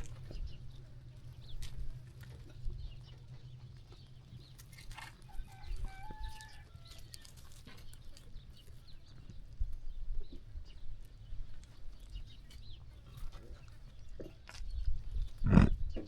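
Farm animal ambience among grazing sheep: scattered small clicks and rustles of animals moving over a low rumble. A short pitched call comes about five to seven seconds in, and one louder, brief animal call near the end.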